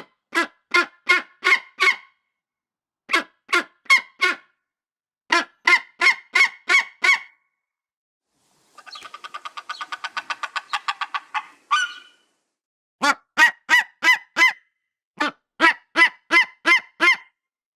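A large bird calling in bouts of four to six short, loud calls with pauses between them, and a fast chattering run of many quick notes about nine seconds in.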